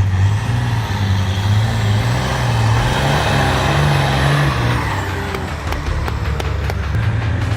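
Competition trial truck's engine running steadily under load, with a run of sharp knocks and rattles from about five seconds in.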